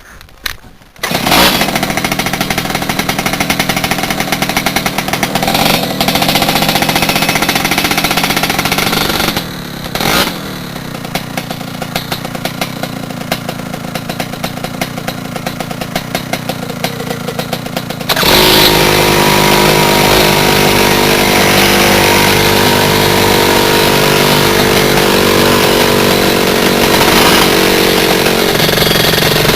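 Rotax Max 125 single-cylinder two-stroke kart engine running. It starts suddenly about a second in, drops in level around ten seconds in, then from about eighteen seconds on runs louder with a steady pitched drone.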